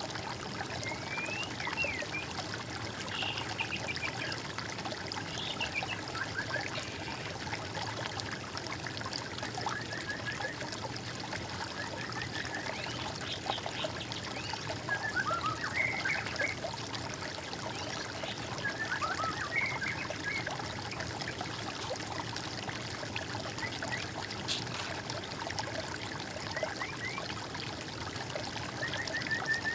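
Water trickling and running steadily, with small songbirds chirping and trilling off and on over it.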